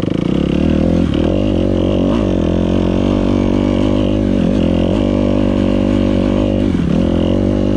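Dirt bike engine running at steady high revs, with a few brief dips in pitch as the throttle eases off.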